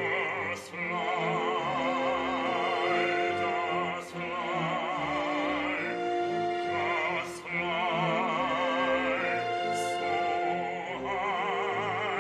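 Operatic singing in long held phrases with heavy vibrato, over an accompanying ensemble holding low sustained notes; the phrases break briefly about every three seconds.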